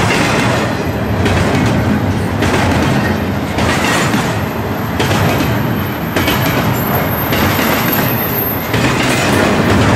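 A train passing at speed close by: a loud, continuous rush of wheel and rail noise that swells and dips every second or so.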